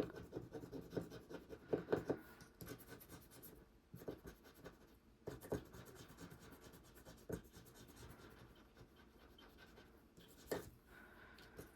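A scratcher tool scraping the coating off a paper scratch-off card in quick rubbing strokes, then a few scattered scrapes and taps.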